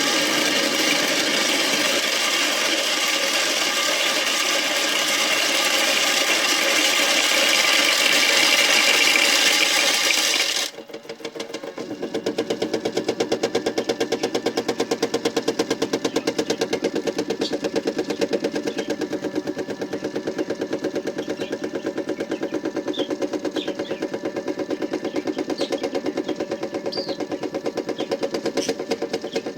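The small electric motor of a modified toy washing machine running with objects inside. It starts suddenly with a harsh, hissy whir, dips about ten seconds in, then settles into a fast, even pulsing hum with a few light clicks near the end.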